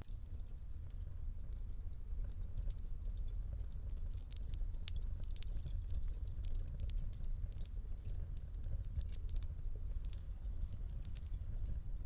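Fire burning in a fireplace, crackling with many small, irregular pops and snaps over a low, steady rumble of flame.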